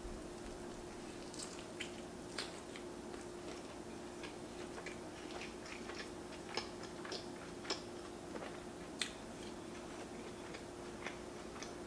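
Close-miked chewing of a big mouthful of roasted chicken sandwich with tzatziki: soft, irregular wet clicks and smacks of the mouth working. A faint steady hum sits underneath.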